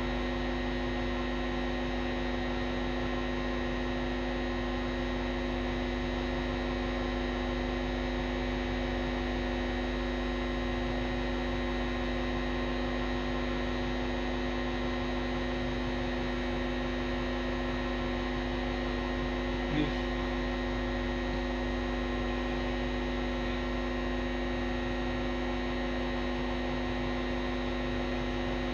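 Steady electrical mains hum with several unchanging tones, and one faint click about twenty seconds in.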